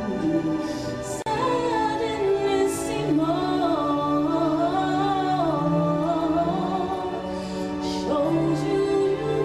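Show-tune singing from a stage musical: a slow sung melody with vibrato over sustained accompaniment notes.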